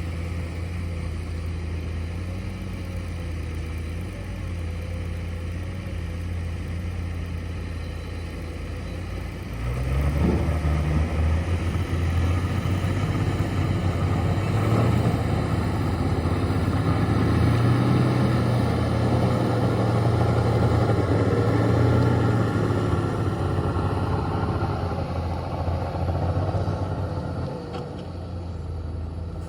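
Heavy diesel earth-moving machinery engine running. About ten seconds in it revs up and works harder for some seconds, then eases back near the end.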